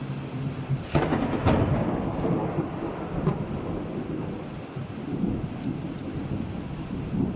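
A thunderclap over steady rain: a sharp crack about a second in, a second crack just after, then a long rumble that slowly dies away.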